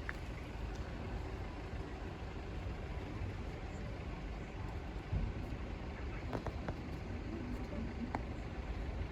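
Steady low rumble of road traffic near the crossing, with a few faint ticks about six and eight seconds in.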